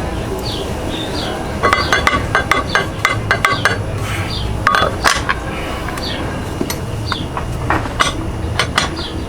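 Metal tools and hardware clinking and clattering as a metal plate is fitted near a scooter's rear wheel, in irregular knocks with a busier run about two seconds in. Short high chirps repeat about once a second behind it.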